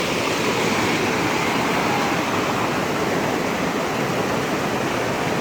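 Flash-flood water rushing steadily down a canyon wash.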